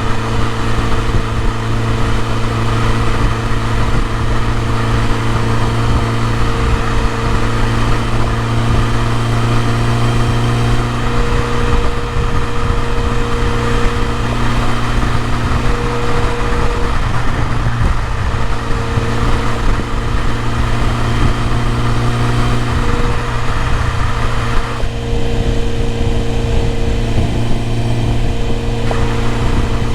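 BMW E30 M3's S14 inline four-cylinder engine idling steadily.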